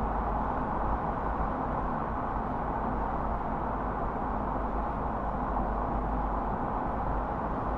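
Car driving at a steady speed: an even, unbroken road noise with a low rumble from the tyres and engine.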